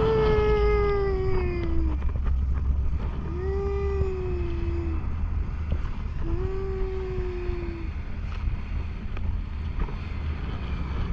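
A voice holding three long notes, each slightly falling in pitch, about three seconds apart, over a steady low rumble of wind on the microphone.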